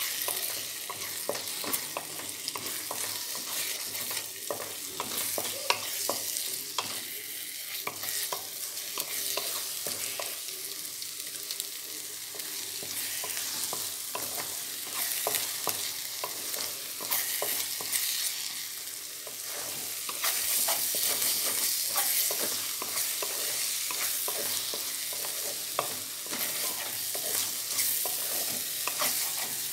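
Egg and grated bottle gourd sizzling in oil in a stainless steel kadai over high flame, with a spatula scraping and stirring against the pan in quick, irregular strokes. The sizzle gets louder about two-thirds of the way through.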